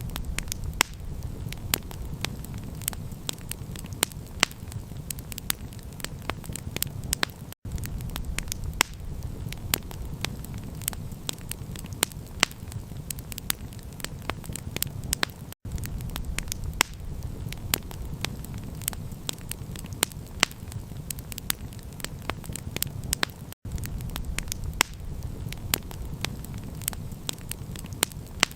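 Campfire crackling and popping: dense sharp snaps of burning wood over a steady low rumble. The sound drops out for an instant about every eight seconds, where the recording loops.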